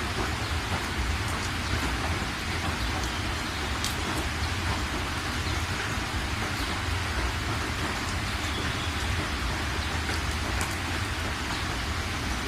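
Steady rain falling, a constant even hiss with scattered drop ticks, over a continuous low rumble.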